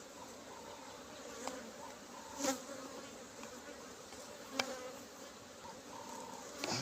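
Honeybees buzzing over an open hive, a steady hum, with a few short sharp knocks about one and a half, two and a half and four and a half seconds in and again near the end.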